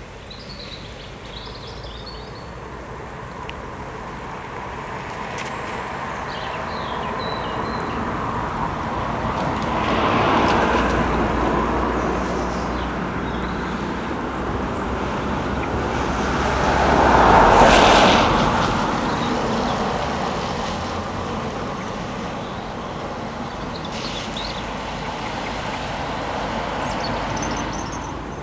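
Road traffic noise that swells and fades twice as vehicles pass, about a third of the way in and again, louder, just past the middle. Faint bird chirps come through now and then.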